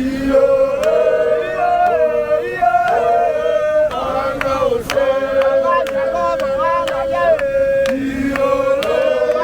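Several voices chanting or singing together in parts, holding long notes, with sharp claps or percussive clicks in between.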